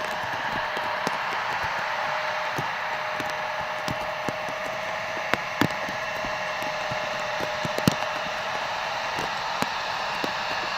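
Steady hiss of heavy rain, with scattered sharp ticks of drops striking close by. A steady hum sounds beneath it.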